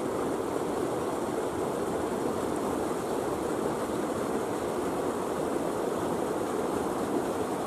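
Steady running noise of an approaching six-car 115-series electric train, heard from a distance.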